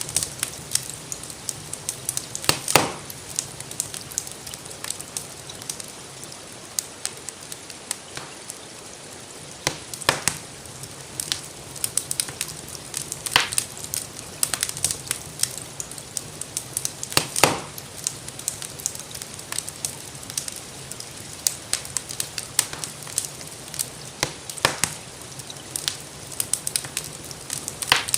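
Wood fire crackling, with irregular sharp pops and snaps over a steady hiss, together with gentle rainfall.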